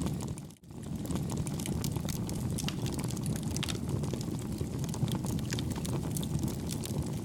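Campfire burning: a steady low rumble of flames with frequent small crackles and pops. The sound drops out for an instant about half a second in.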